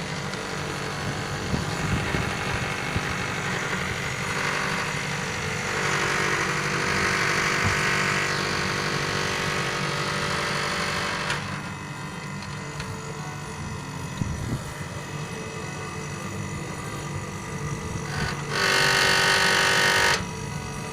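Air conditioner running with a steady mechanical hum. Partway through there is a louder rushing stretch of several seconds, and near the end a loud hiss lasts about a second and a half, starting and stopping suddenly.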